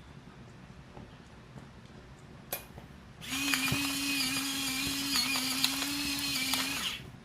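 A small electric motor, most likely a kitchen appliance such as a blender or grinder, is switched on about three seconds in. It runs at a steady whirring pitch for nearly four seconds, then stops suddenly. A sharp click comes just before it starts.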